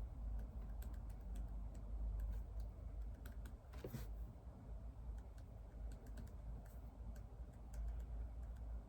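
Typing on a computer keyboard: irregular, light key clicks, one a little louder about four seconds in, over a low steady hum.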